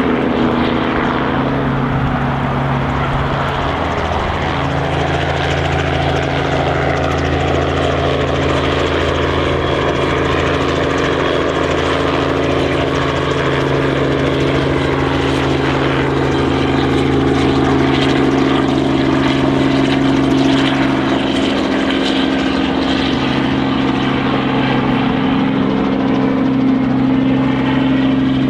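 Heavy engine droning steadily, with its pitch sliding slowly up and down, in the manner of a large truck engine sound effect.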